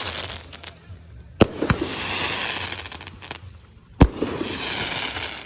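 Aerial firework shells bursting: two sharp bangs about two and a half seconds apart, each followed by a crackling hiss that fades over about a second and a half.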